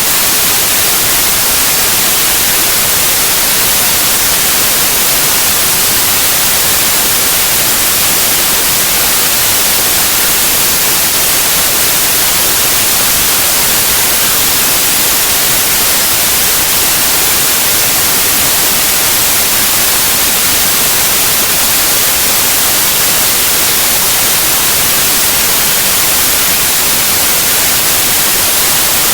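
Steady white noise: an even, unchanging hiss spread across all pitches, brightest in the highs.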